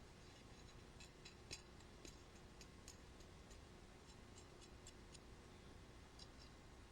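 Near silence: room tone with faint, irregular light clicks scattered through it.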